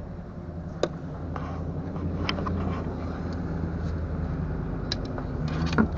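A steady low engine hum, as of a vehicle idling, with a few scattered light clicks and knocks.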